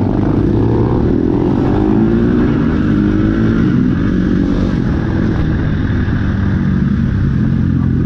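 Dirt bike engine running on the move. Its pitch rises and falls with the throttle in the first couple of seconds, then holds fairly steady.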